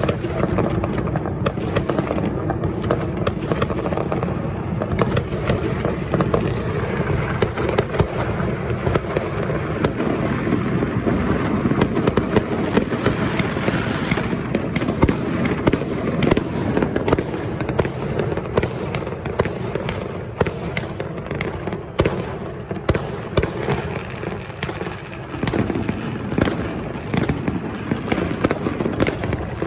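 Firecrackers and fireworks going off in a dense, unbroken barrage of crackles and bangs, many at once with no pause.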